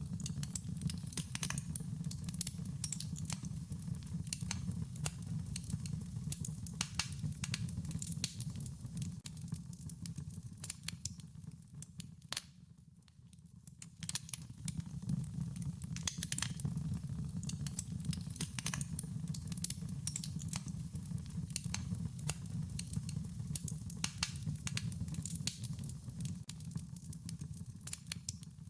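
Wood fire crackling, with frequent sharp pops and snaps over a steady low rumble of the flames; it dies down briefly about halfway through, then picks up again.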